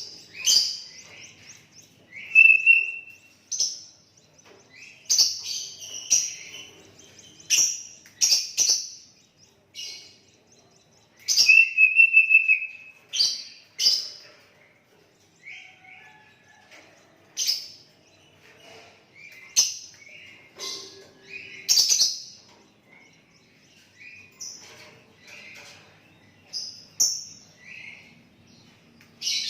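Sooty-headed bulbul (kutilang) singing: short, bright whistled calls, repeated every second or two at irregular intervals, some with a gliding note.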